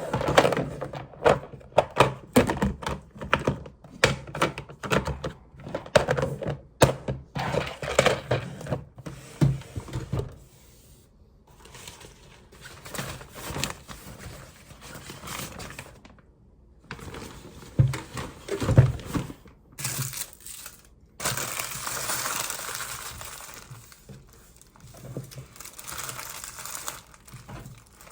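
Close, irregular clicks and knocks with some crinkling. The clicks are dense for the first third and sparser after, and a steadier hiss comes in about two-thirds of the way through.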